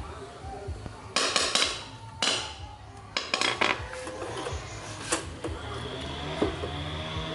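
Metal clanking and clattering: several quick knocks in clusters during the first half, then a single sharp clank about five seconds in.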